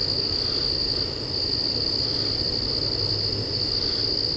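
Chorus of insects trilling in one continuous high-pitched buzz that stays steady throughout.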